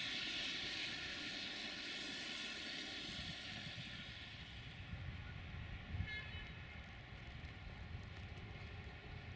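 A Siemens Desiro diesel multiple unit running over snow-covered track, its running noise steadily fading. About six seconds in there is a short high toot.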